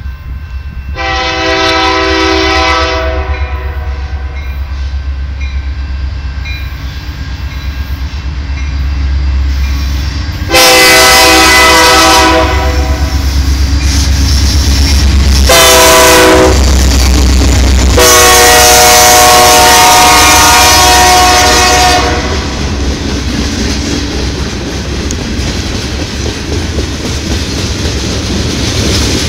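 CN freight train's diesel locomotive sounding its horn long, long, short, long, the grade-crossing signal, over a steady engine rumble as it approaches. After the last blast the locomotives and covered hopper cars pass close by with loud rolling noise and wheels clacking over the rail joints.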